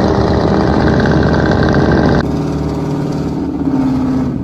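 Pickup truck engine running loudly through a loud aftermarket exhaust. About halfway through it cuts abruptly to a different, somewhat quieter engine sound.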